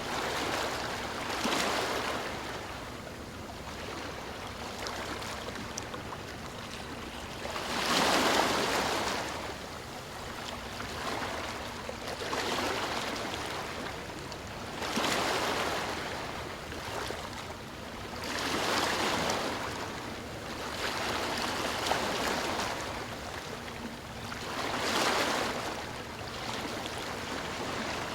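Sea waves breaking and washing up the shore, the surf noise swelling and falling away every few seconds, the biggest swell about eight seconds in.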